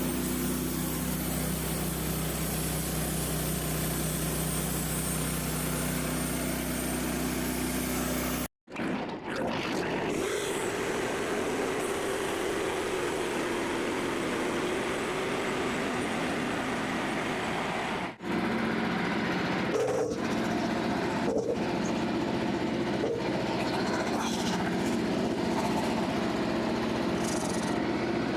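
Portable bandsaw mill running steadily, its engine driving the band blade through a white oak log. The sound changes abruptly twice, about a third and two-thirds of the way through, where the recording jumps.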